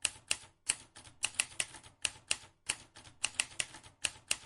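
Typing: rapid, uneven key clicks, several a second.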